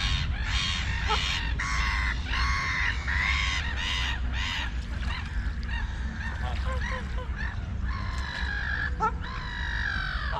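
Bird calls: a rapid series of harsh calls, about two a second, through the first five seconds, then fainter scattered calls and one long drawn-out call near the end, over a low steady rumble.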